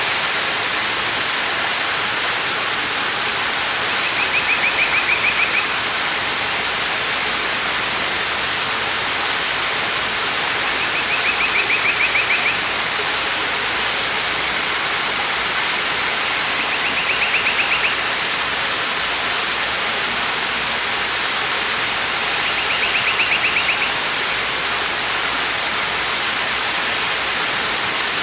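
Waterfall rushing steadily, a dense unbroken hiss of falling water. Over it a high, fast trill of about a second and a half repeats roughly every six seconds, five times.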